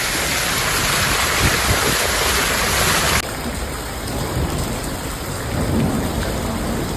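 Heavy rain pouring down steadily, a dense hiss; about three seconds in it cuts abruptly to a duller, slightly quieter rain sound.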